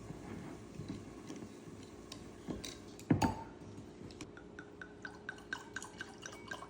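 Glass clinks and light handling clicks of a wine bottle and glasses being readied for tasting. There is a sharp clink about three seconds in, then a quick run of light ticks near the end.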